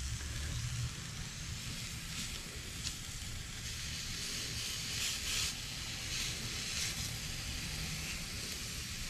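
Omelette sizzling steadily in a very hot cast iron potato cooker, with a spatula scraping at the food in the pan a few times from about two seconds in, over a low rumble.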